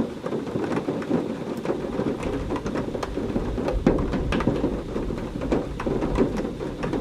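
Heavy rain pattering, with many sharp drops splashing close by. A low thunder rumble rolls in about two and a half seconds in and goes on under the rain.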